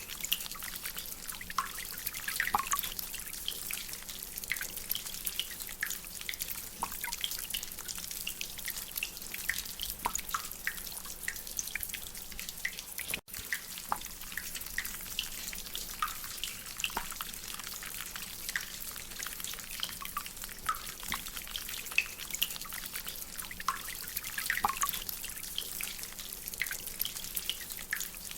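Rain dripping from a drainpipe: irregular water drops over a steady hiss of rain, with a brief drop-out a little under halfway through.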